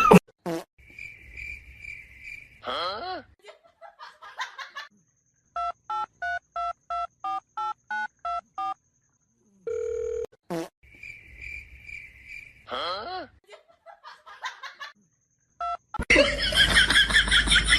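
Telephone sounds: a pulsing ring tone, then a quick run of about a dozen keypad beeps at roughly four a second. The same ring comes again later, each time followed by a short sliding call.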